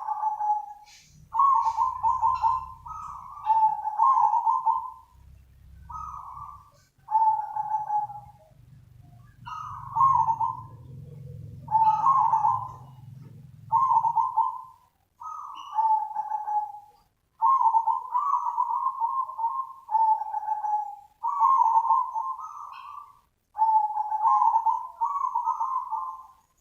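Zebra dove cooing song: short phrases of rapid, trilling coo notes, each about a second long, repeated one after another with brief pauses.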